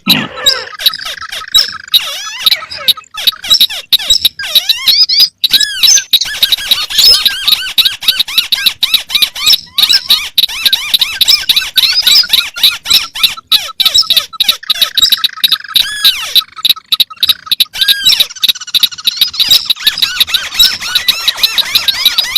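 Several crake calls played over each other as a bird lure: white-browed crake and other crakes giving rapid, overlapping chirps, squeaks and chattering trills that never fall into one rhythm.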